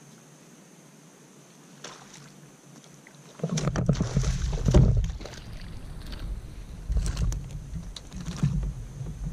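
Quiet at first, then from about three and a half seconds in a run of knocks, bumps and rubbing on a fishing kayak, with a deep rumble under them.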